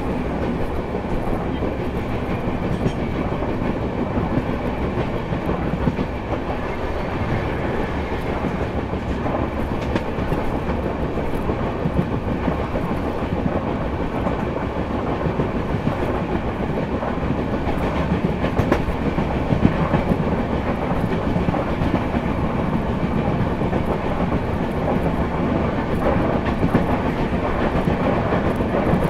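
Passenger train running along the track, heard from aboard a coach: a steady rumble with the wheels clicking over the rail joints.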